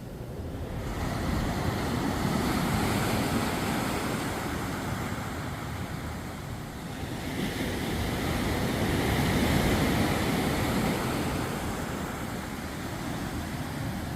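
Ocean waves breaking on a sandy beach: two surges of surf swell up and wash out, each lasting about five seconds, with some wind on the microphone.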